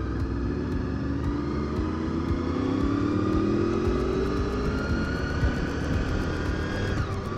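Motorcycle engine, a Honda VFR800 V4, pulling and rising steadily in pitch as the bike accelerates, then dropping sharply near the end at a gear change, over a low rumble of wind and road noise.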